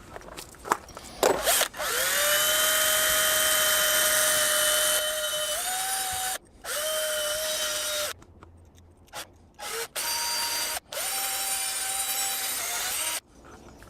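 Electric drill fitted with a small wire brush, running in four bursts of a few seconds with short stops between, its motor whine rising in pitch as it spins up at the first start; a few clicks of handling come before it. The wire brush is being used to clean corrosion off electrical connections.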